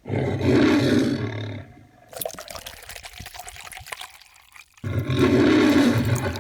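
Two loud roars, each about a second and a half long, with a spell of faint crackling and clicks between them.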